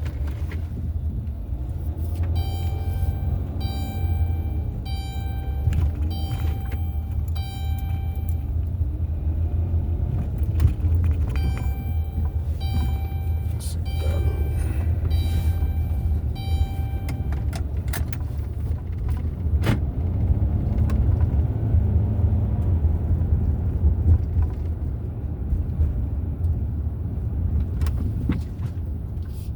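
Steady low road and engine rumble inside a moving vehicle. Twice it is joined by a run of electronic chimes repeating about once a second, each run lasting around six seconds.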